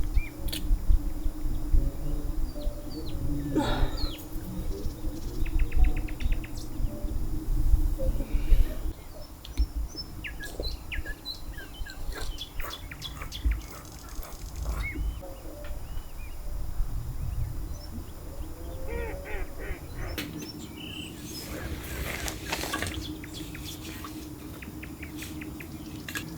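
Birds chirping and calling in short, scattered chirps over a steady low hum. A heavy low rumble fills the first nine seconds or so, then drops away.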